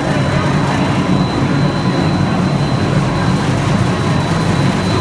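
Steady loud drone of snack food production-line machinery running, with a thin, steady high-pitched whine over it.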